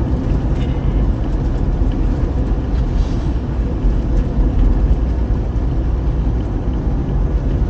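Steady low rumble of a moving car: engine and road noise while driving.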